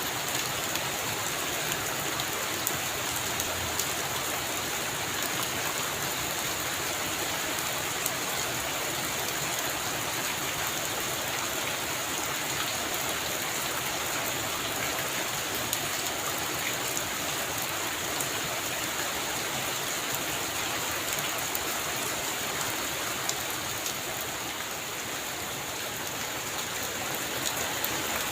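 Heavy rain falling steadily on a roof, a dense hiss with scattered sharp drop ticks, easing slightly for a few seconds near the end.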